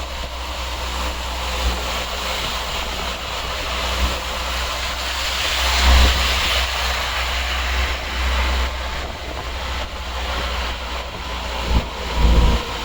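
Road traffic moving through floodwater, a steady wash of engine and tyre noise that swells about six seconds in as a vehicle passes. Wind buffets the microphone throughout with an uneven low rumble and a few thumps near the end.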